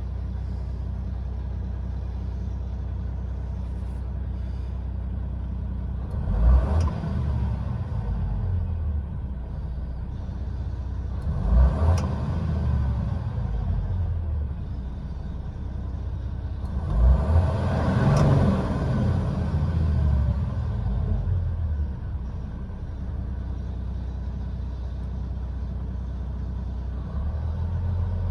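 Isuzu Forward truck's diesel engine idling steadily, revved up briefly three times: about six seconds in, about twelve seconds in, and a longer rev about seventeen seconds in.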